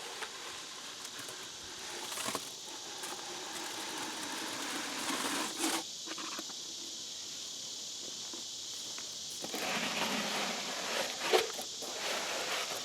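Scraping of a plastic scoop cut from a bucket digging into stiff wet concrete, in two spells with a sharp knock near the end, over a steady high hum of insects.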